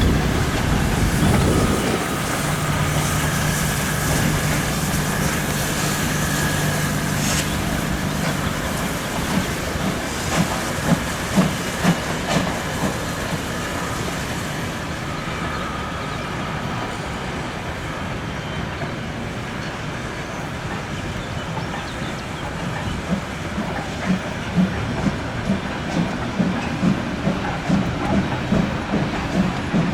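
Train running along the track, its wheels clicking over rail joints in quick rhythmic groups. A steady low hum runs under the rolling noise for the first few seconds.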